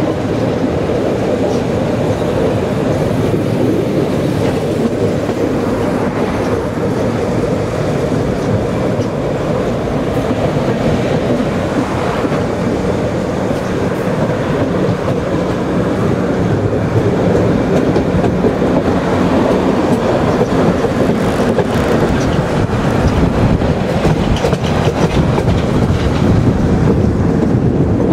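Narrow-gauge Zillertalbahn train running along the line, heard from aboard a carriage: a steady rumble of wheels and carriage with occasional clicks over the rail joints, growing a little louder in the second half.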